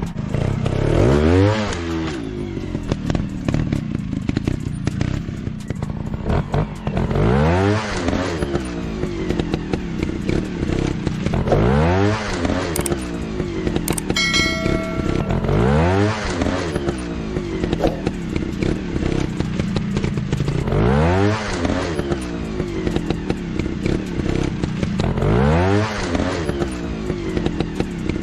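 Trail motorcycle engine revving up and dropping back again and again, a rise and fall every four seconds or so, with clatter underneath.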